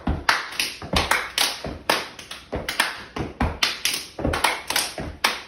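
Body percussion for a stomp cheer: a steady rhythmic pattern of hand claps, thigh slaps and foot stomps, about three to four hits a second, some of them deeper thuds.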